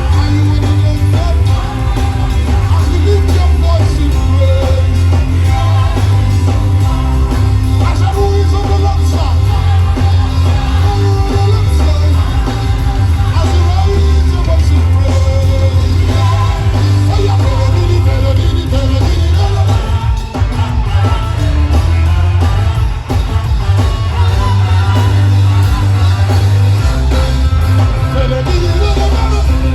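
Loud live gospel worship music: a band with a heavy, steady bass line and singing.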